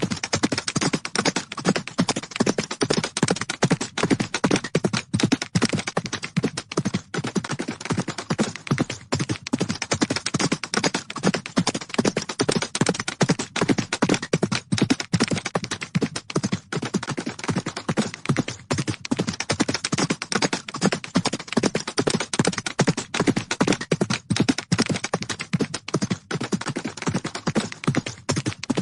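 Horses' hooves galloping: rapid, unbroken hoofbeats.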